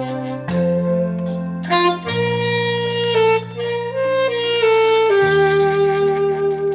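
Saxophone playing a melody in long held notes over a backing track of sustained bass notes and chords.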